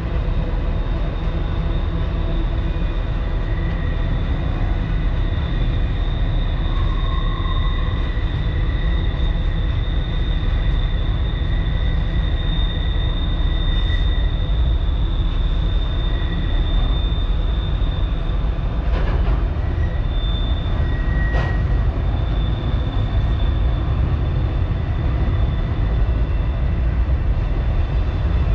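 Long freight train rolling across a girder bridge: a steady low rumble with a thin, high steady tone over it, and a couple of faint clicks about two-thirds of the way through.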